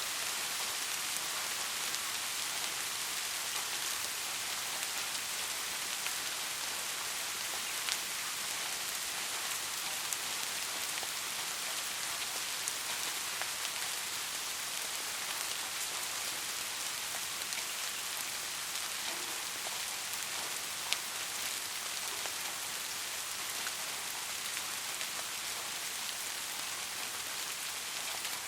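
Steady rain falling, an even hiss of many drops, with a few louder single drops ticking now and then.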